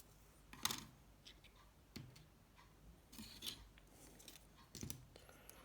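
Faint, scattered clicks and scrapes of small parts of a Nokia 7373 mobile phone being handled during disassembly, four or five short sounds a second or so apart.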